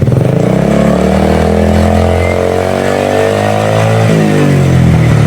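Honda Icon scooter's single-cylinder four-stroke engine through a WRC aftermarket exhaust, revved up from idle right away, held high for about three seconds, then falling back toward idle near the end; a mellow exhaust note.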